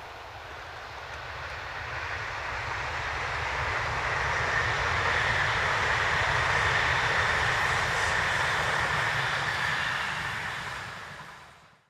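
E6 series Akita Shinkansen (Komachi) train running past, its noise swelling over the first few seconds into a steady rush with a high, even whine, then fading out quickly near the end.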